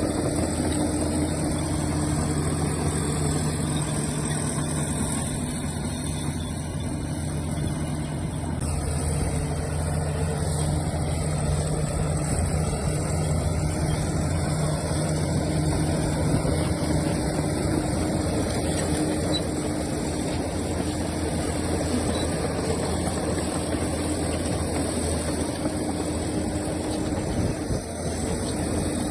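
Heavy diesel earthmoving engine running steadily, its engine note shifting partway through.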